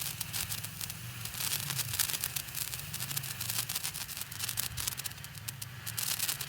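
Handheld firework burning and spraying sparks: a dense, rapid crackling and sputtering with no let-up.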